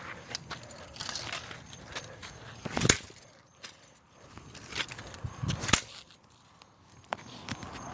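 Light plastic clattering and shuffling from the broken pieces of a toy helicopter, with two sharper knocks, about three seconds and about six seconds in.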